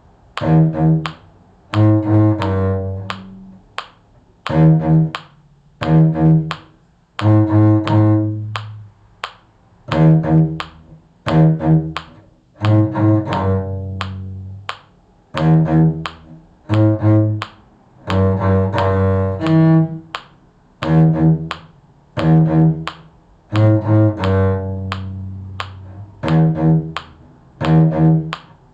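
A string instrument in the low range plays the middle line of a simple beginner's tune. It plays short notes in small groups of two or three, with brief gaps between the groups.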